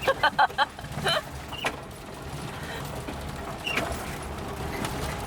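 Suzuki Jimny's freshly overhauled engine running steadily at low speed during its break-in drive, heard from inside the cabin along with the road noise.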